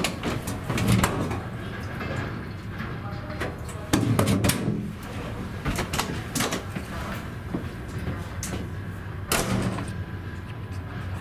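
Train noise heard from inside a passenger carriage: a steady low rumble with irregular knocks and clanks of railway wagons. The loudest knocks come about a second in, about four seconds in and near the end.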